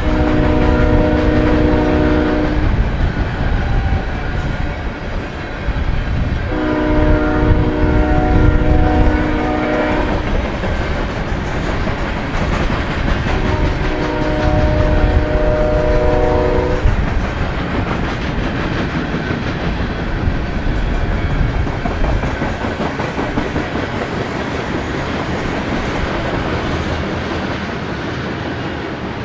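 Freight locomotive horn sounding three long chord blasts a few seconds apart, over the rumble and clickety-clack of a passing freight train. The rumble slowly fades after the last blast.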